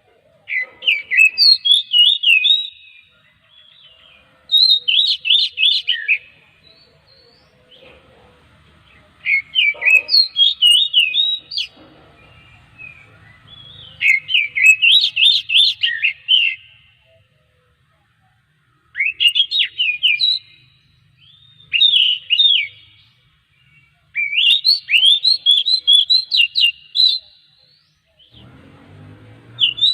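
Oriental magpie-robin (kacer) singing loud, rapid phrases of whistled notes that sweep up and down. There are about seven bursts of song, each one to three seconds long, with short pauses between them.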